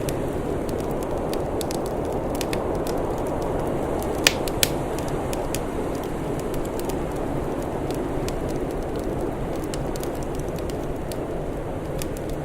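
Crackling wood fire: a steady low rushing noise with scattered sharp crackles throughout and two louder pops a little over four seconds in.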